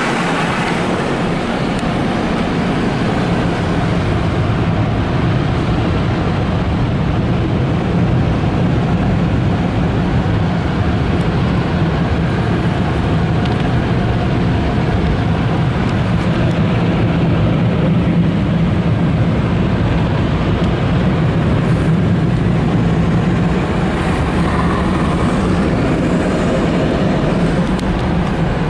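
Automatic car wash tunnel equipment running around the car, a loud steady noise with a low hum underneath.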